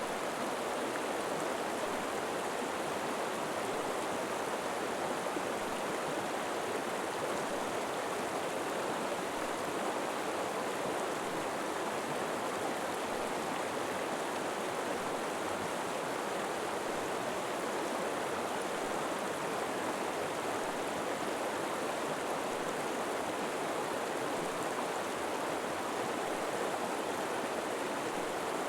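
River water flowing steadily over rocks, a constant rushing with no breaks or changes.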